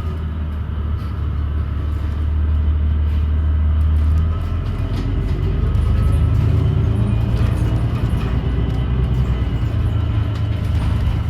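Ride inside a New Flyer XDE40 diesel-electric hybrid city bus under way: a strong, deep drone that drops in pitch about four seconds in, with a faint rising whine soon after as the bus picks up speed.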